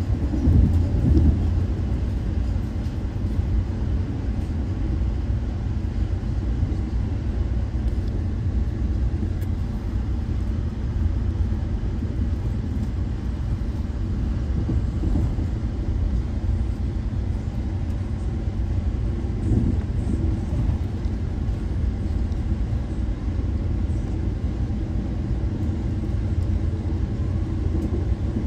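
Steady low rumble of an Amtrak passenger train in motion, with a brief louder swell about a second in.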